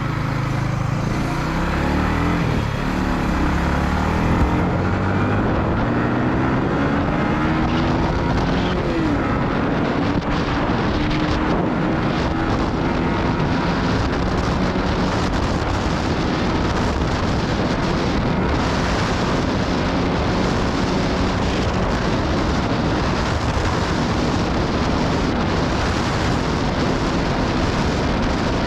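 Yamaha MT-15's single-cylinder engine accelerating hard through the gears, its pitch climbing several times in the first few seconds. It then runs steadily at high speed, with wind rushing over the microphone.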